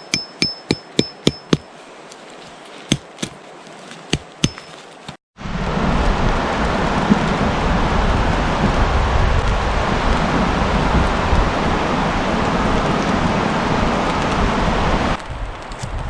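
A quick run of sharp strikes with a faint ringing note, about eight in a second and a half, then a few more spaced out. Then a sudden cut to a steady rushing noise of rain or wind, which cuts off abruptly again near the end.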